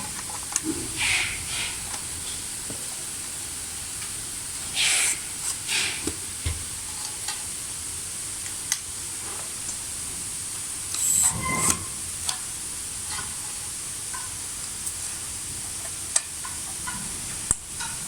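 Steady hiss with a few sharp clicks and short bursts of clatter from parts and screws being handled during hand assembly.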